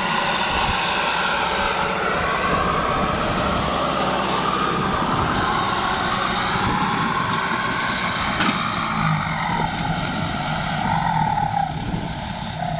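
Kubota tractor's turbocharged diesel engine running steadily under load while ploughing stubble, with a turbo whine above the engine note.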